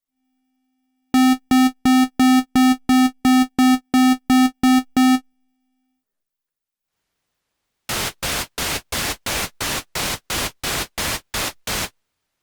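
Roland Juno-106 synthesizer running its test mode: one buzzy pitched note pulsing on and off about three times a second, then, after a pause, bursts of hiss-like white noise pulsing at the same rate.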